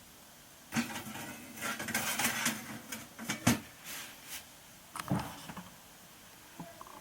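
Irregular clattering and rustling of hard objects being handled, with a sharp knock about three and a half seconds in and another burst about five seconds in.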